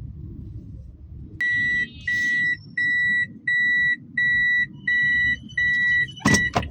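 Electronic warning beeper sounding a steady, evenly repeated beep, about eight beeps at roughly one and a half a second, starting about a second and a half in, over a low car engine and road rumble. A sharp loud knock lands near the end.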